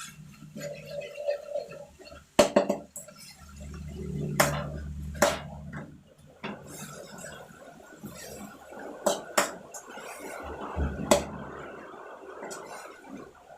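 Water spinach being stir-fried in a hot pan: a utensil knocks and clatters against the pan several times, and from about halfway through a steady sizzle comes from the pan.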